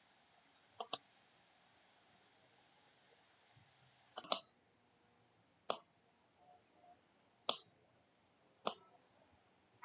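Sharp single clicks at irregular intervals, some in quick pairs, over a faint steady hiss.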